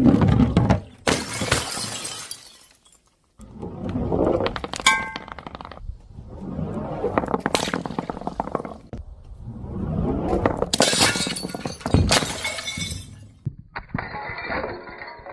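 Glass bottles breaking and shattering, about four separate crashes of crunching, clinking glass.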